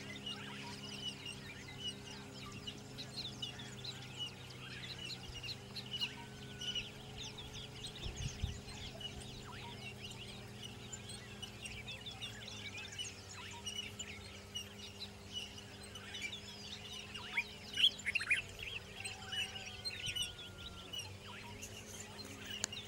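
Many birds chirping and calling over one another in quick short notes, busiest near the end, over a steady low hum.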